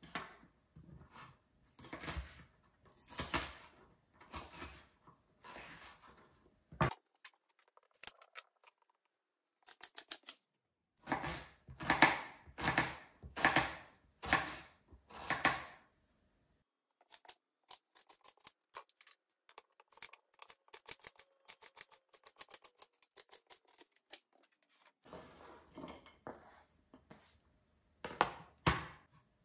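Kitchen knife cutting food on a cutting board: runs of firm strokes a little over one a second, with pauses and lighter quick clicks between the runs.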